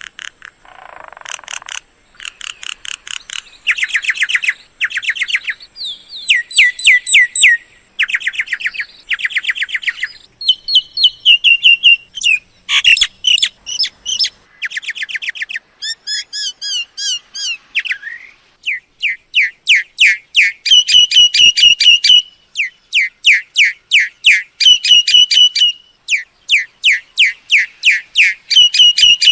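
Myna calls: rapid runs of short, sliding whistled notes in bursts of a second or two, one after another, with a harsh rasping call about a second in. The bursts grow longer and closer together toward the end.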